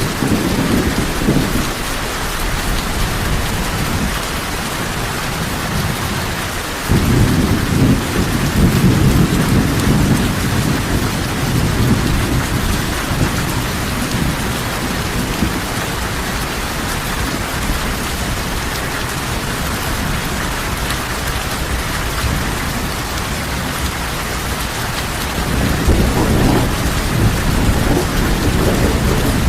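Heavy rain pouring steadily, with low rolls of thunder: one rumble starts suddenly about a quarter of the way in and dies away over several seconds, and another rolls near the end.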